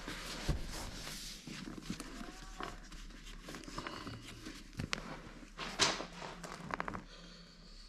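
Handling noise of a leather seat strap being fitted to a motorcycle seat: rustling and scraping, with a few sharp clicks and a quick run of clicks near the end.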